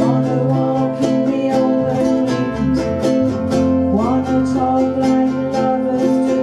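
Live ukulele band music: several ukuleles strumming chords in a steady rhythm, with voices singing.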